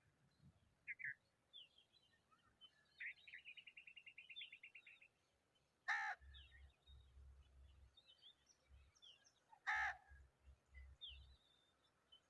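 Wild birds calling: scattered short chirps, a rapid trill of about ten notes a second lasting nearly two seconds, and two loud, short, harsh caw-like calls about four seconds apart.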